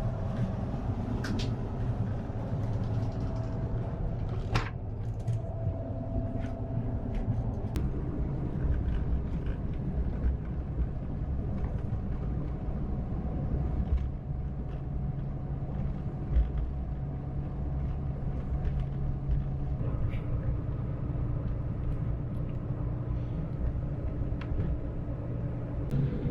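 Ride noise inside a moving Marcopolo Paradiso G7 double-decker coach on a Scania chassis: a steady low rumble of engine and tyres, the engine note shifting pitch a few times, with scattered light clicks and creaks from the cabin fittings.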